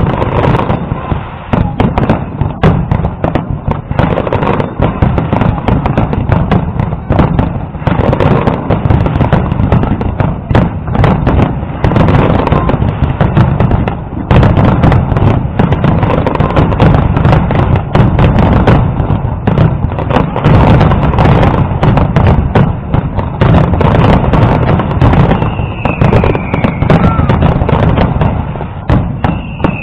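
Fireworks display: a dense, continuous barrage of aerial shell bursts going off in rapid succession, with a couple of falling whistles near the end.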